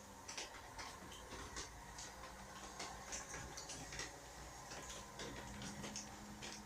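Water dripping in irregular short ticks, about two a second, typical of rainwater leaking in through a damaged roof.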